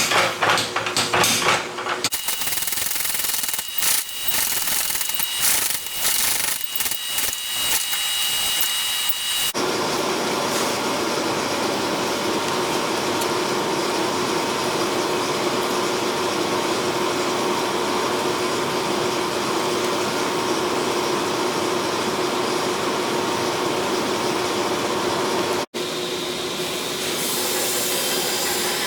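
Metalworking shop sounds: a quick run of strikes, then a few seconds of irregular strokes, then a power tool running steadily for most of the rest, broken by a brief cut near the end.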